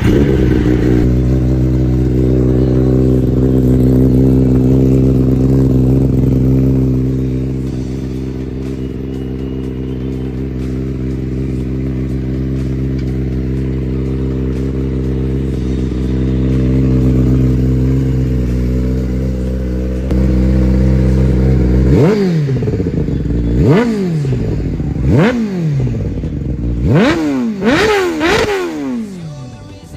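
Kawasaki ZX-10R's inline-four engine idling steadily for about twenty seconds, then blipped hard about six times in quick succession, each rev rising sharply and dropping straight back, with pops and crackles from the exhaust as the revs fall.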